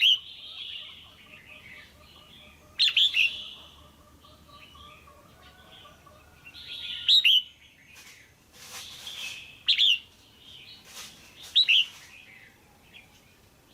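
Female red-whiskered bulbul giving short, loud chirping calls, about five of them, each a quick cluster of notes, a few seconds apart.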